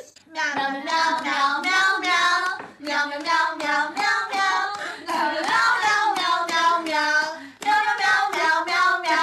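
A high-pitched voice in wavering, sung-sounding phrases, each about half a second to a second long with short breaks between, and a brief pause near the end.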